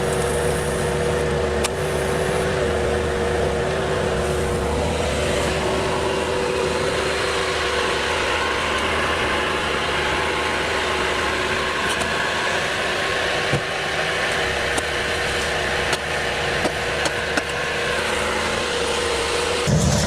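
Engine of a heavy machine running steadily at constant speed, with a steady whine over it. A few light clicks come near the end.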